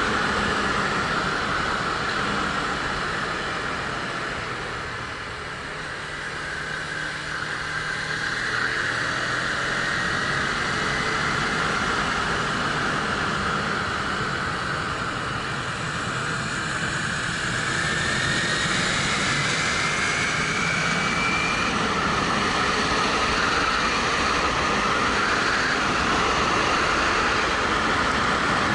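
Suzuki GW250 parallel-twin motorcycle engine running on the road, with wind rushing over a helmet-mounted camera. The sound drops back briefly about five seconds in, and the engine note rises twice as it revs up.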